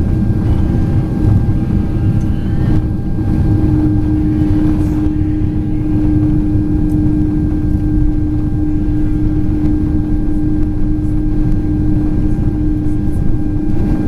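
Boeing 767-400ER cabin noise heard from a passenger seat: a steady rumble of engines and rushing air with a constant droning hum.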